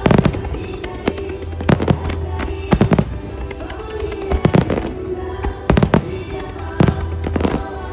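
Aerial firework shells bursting in a music starmine: sharp bangs about once a second, several in quick doubles, over a song with singing played through loudspeakers.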